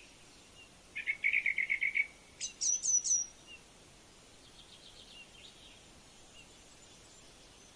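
Small birds calling: a quick trill of about ten notes, then four sharp, high, downward-sliding notes, then a few fainter chirps, over a faint steady hiss.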